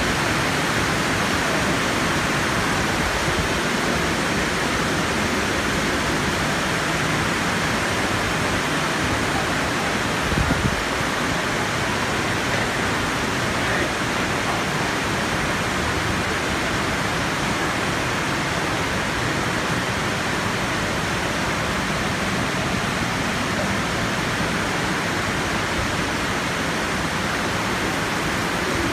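Steady rushing hiss of heavy rain during a flash flood, with a brief low thump about ten seconds in.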